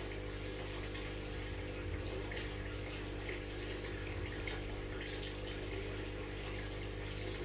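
Aquarium water trickling and splashing steadily, over the steady low hum of the tank's pump.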